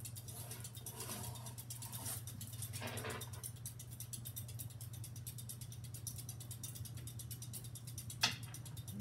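Halsey GEV ceiling fan motor running in reverse, a steady hum with a fast, regular ticking rattle. A single sharp click near the end.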